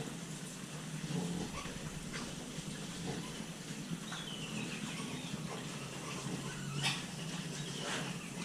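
Piglets making small grunts and squeaks, with a high call stepping down in pitch about four seconds in and scattered light clicks.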